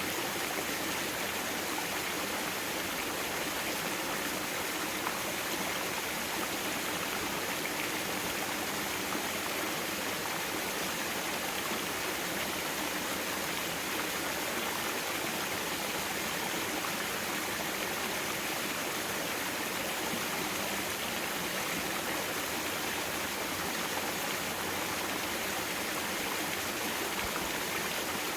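Mountain stream water flowing steadily over rocks, an even rushing sound.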